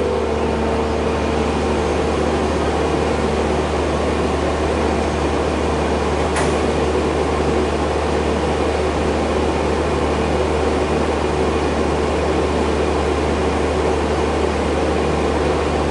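Steady hum and rush inside a train carriage, from its air conditioning and running equipment. A few steady tones fade out in the first two seconds, and there is a single sharp click about six seconds in.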